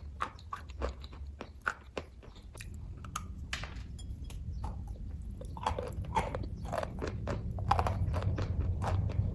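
Close-up chewing of kaju katli, the soft cashew fudge, with many short mouth clicks and smacks. A low rumble underneath grows louder from about three seconds in.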